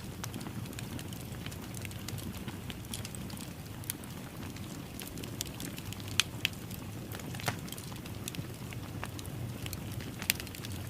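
Fire burning in a fireplace: a steady low rumble and hiss, with irregular crackles and a few sharper pops in the second half.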